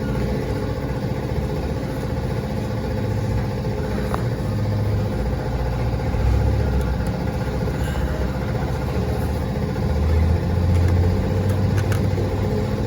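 Steady low engine-like rumble with a constant hum, swelling a little around the middle and again near the end.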